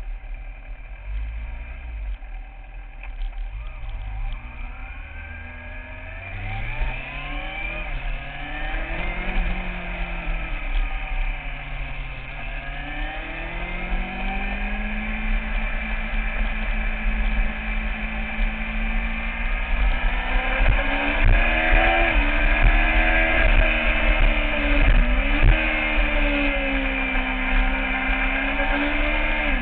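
Kawasaki ZX-6R sport bike's inline-four engine, low at first, then revving hard with the pitch repeatedly climbing and dropping as it is run through the gears, getting louder in the second half. Heard on a bike-mounted camera, with a steady low wind rumble underneath.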